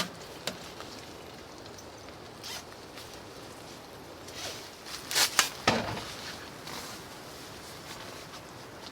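A few short rasping, zipper-like bursts of handling noise, with the loudest cluster about five seconds in, over a steady low background hiss.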